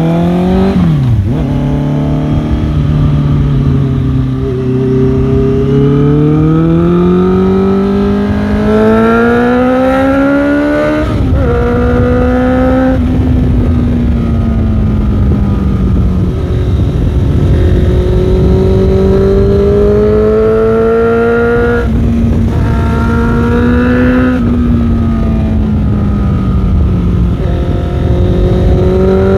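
Motorcycle engine under way, revs climbing steadily for several seconds and dropping at gear changes about a second in and again about a third of the way through, then holding a fairly even pitch with a couple more shifts near the end. Heavy wind rush over the microphone.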